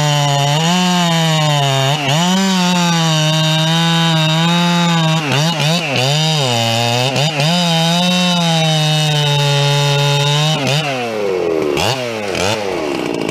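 Two-stroke chainsaw running at high revs while bucking firewood, the engine note dipping and recovering several times as the chain works through the log. About eleven seconds in the revs fall away, with a couple of short blips near the end.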